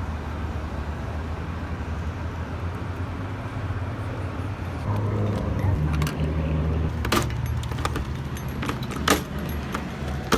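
Car engine running with a steady low hum; from about seven seconds in, a run of sharp clicks and jangles over it.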